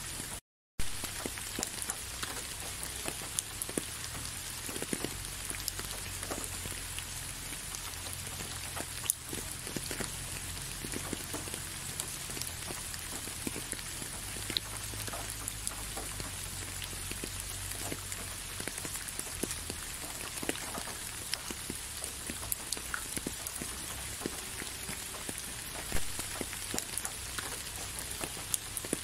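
Steady rain falling, with many separate drops ticking close by over an even hiss. A split-second gap of silence comes just after the start.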